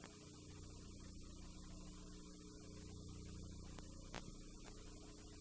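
Faint steady electrical hum with a light hiss, and a single click about four seconds in.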